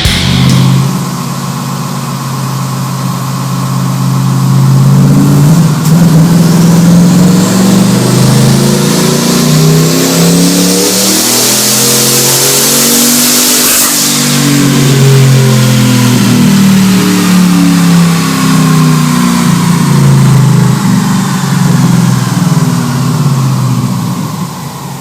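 Twin-turbocharged Ford F-150 Harley-Davidson V8 pulling on a chassis dyno: the engine revs climb steadily under full load for about 14 seconds, with a rising turbo whistle. The throttle then closes and the revs wind down slowly.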